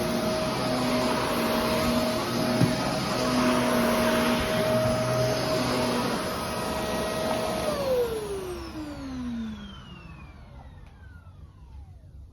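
Vacuum cleaner running steadily, with a single click a couple of seconds in. About eight seconds in it is switched off, and its motor winds down in a falling whine that fades over the next few seconds.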